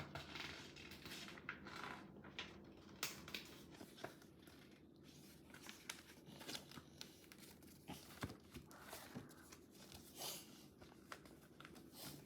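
Faint rustling and crinkling of paper in a small room, a series of short soft rustles and clicks, as book pages are handled and turned.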